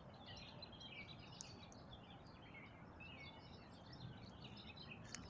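Faint dawn chorus of small songbirds chirping and twittering continuously over a low background rumble.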